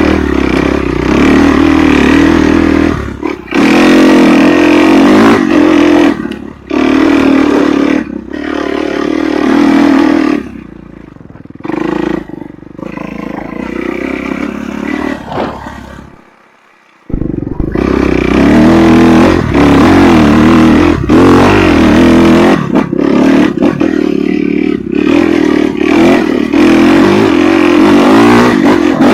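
Off-road motorcycle engine revving up and down under changing throttle. The engine is quieter for several seconds around the middle, and the sound drops out briefly before the revving picks up again.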